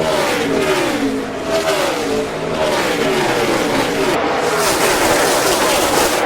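NASCAR Cup stock car V8 engines at racing speed, their pitch falling and rising again several times as the cars brake and accelerate.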